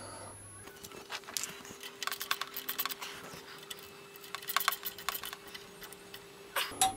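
Ratchet clicking in short quick runs as it tightens a nylock nut onto a motorcycle engine-bar bolt, over a faint steady hum.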